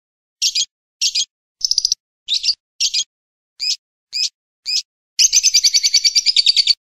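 Recorded bird calls: eight short, high chirps spaced about half a second apart, then a fast chattering trill of about ten notes a second that begins just after five seconds in and stops shortly before the end.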